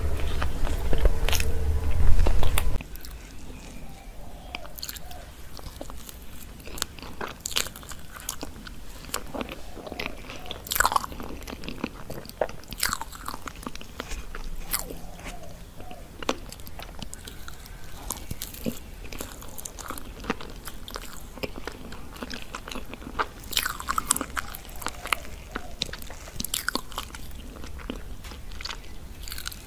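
Close-miked chewing and biting of frosted cake, with irregular soft crunches and mouth clicks. Louder for the first few seconds, then quieter.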